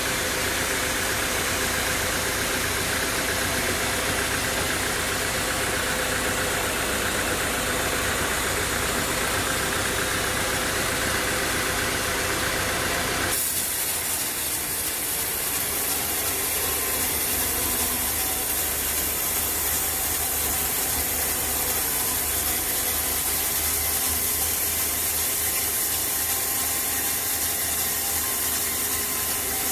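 Sawmill machinery running steadily: an engine driving the saw. Its sound changes abruptly a little under halfway through, then runs on steadily.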